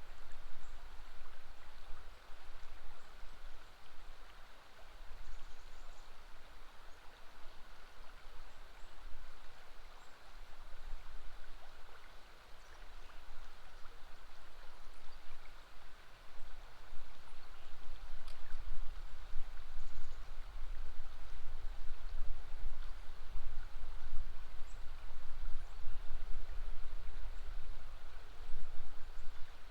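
River water flowing steadily. A low rumble builds up and grows louder about halfway through.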